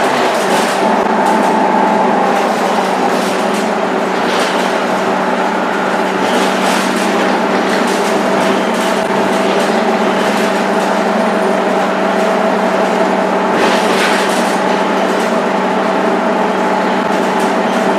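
Scania K230UB bus drivetrain running at a steady pitch under way, with a rattle now and then.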